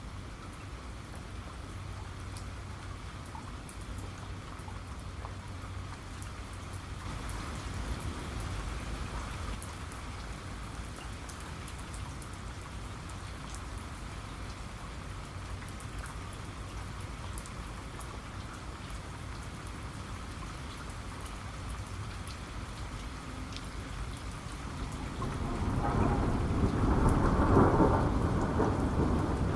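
Steady rain with scattered drop impacts over a low rumble of thunder; a louder roll of thunder swells near the end.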